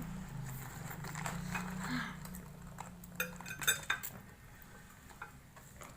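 Eating utensils clinking against dishware while spicy instant noodles are eaten, with a cluster of sharp clicks about three to four seconds in.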